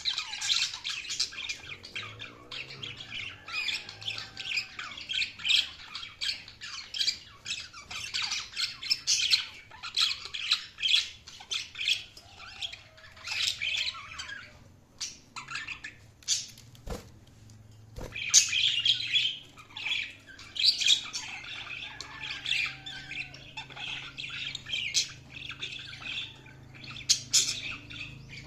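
Several budgerigars chirping and warbling in a continuous busy chatter. There is a short lull past the middle, then two sharp clicks a second apart.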